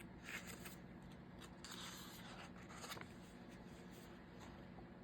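Faint rustling and scraping of paper as sticker-book pages are handled: a few brief rustles in the first three seconds, then near quiet.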